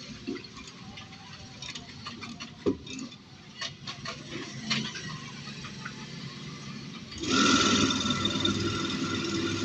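Faint clicks and taps as copper wire and the stator are handled. About seven seconds in, an electric coil winding machine starts and runs steadily with a whine.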